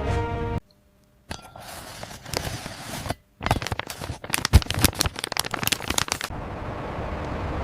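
Irregular crackling and crunching clicks, sparse at first and then rapid and dense for about three seconds, followed by a steady even noise near the end.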